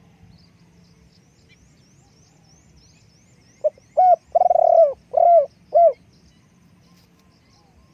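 Spotted dove cooing one phrase of about five low notes near the middle, the long third note the loudest. Faint high chirps repeat quickly in the first half.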